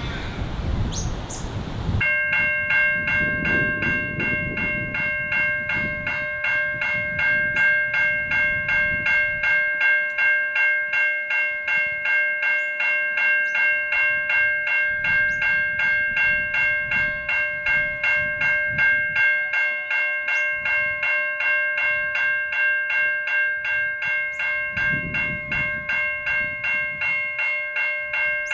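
Level-crossing Safetran Type 3 electronic bells start up about two seconds in and ring with a rapid, even, repeating ding, the sign that the crossing has activated for an approaching train. Low wind rumble on the microphone runs underneath.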